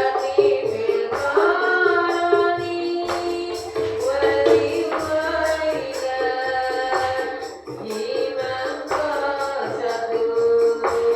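Diba'an sholawat: voices singing a devotional chant in bending, held melodic lines over a steady beat of rebana frame drums.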